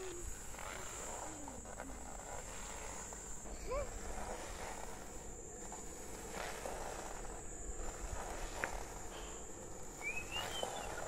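Quiet rural hillside ambience: a steady high-pitched insect drone, with a few short chirps about four seconds in and near the end.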